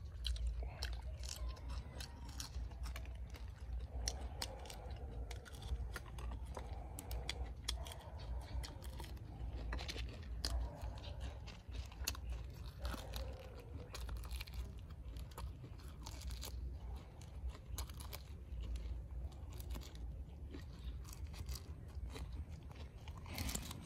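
Someone biting and chewing crispy fried shrimp: repeated short crunches, irregular, over a steady low rumble.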